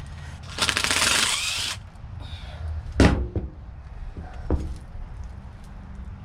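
Power drill with a 1/4-inch bit running for about a second, driving out a screw from the AC unit's sheet-metal housing. A sharp knock follows about three seconds in, with a lighter one a second and a half later.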